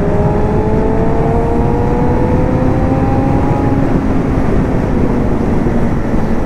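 Sportbike engine running under steady throttle, its note slowly rising, under a heavy rush of wind noise on the rider's camera.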